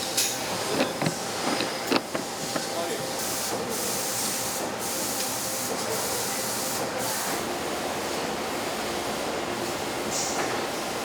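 Factory machinery running steadily, with a quick run of sharp clicks and knocks in the first couple of seconds, then several short bursts of high hissing like air being blown off.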